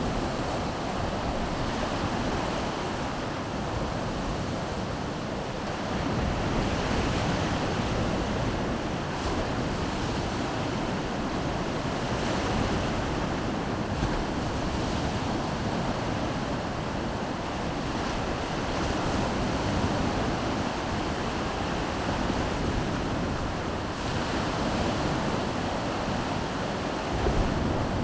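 Baltic Sea surf breaking and washing on the shore, a steady rushing that swells and eases every few seconds, with wind buffeting the microphone.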